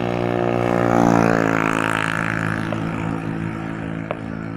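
A motor vehicle's engine running as it passes, growing louder about a second in and then fading away, with a couple of faint sharp cracks near the end.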